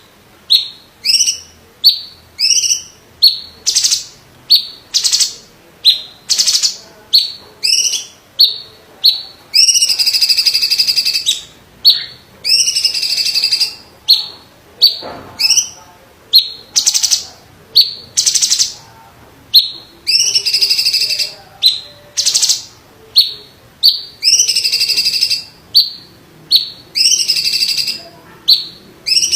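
Green leafbird (cucak ijo) of the 'cungkok' type singing without a break. Held notes about a second long, with a buzzy ring, alternate with short rising chips and quick rolls, each phrase cut off sharply before the next.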